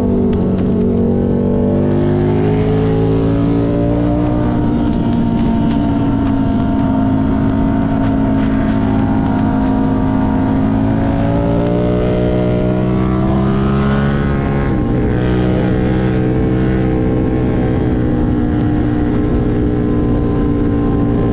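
Buell 1125CR's 1125 cc V-twin engine running under way at steady riding revs, its pitch rising and falling gently with the throttle, with a brief drop in revs about fifteen seconds in.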